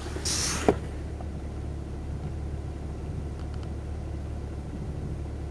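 A Pontiac GTO's 6.0-litre LS2 V8 running steadily with a low hum; the owner suspects it of piston slap. About half a second in, a short hiss ends in a single sharp click.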